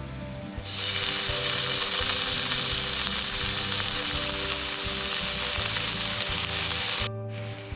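Food sizzling loudly on a hot cooking surface, starting about half a second in and cutting off sharply near the end. Background music plays underneath.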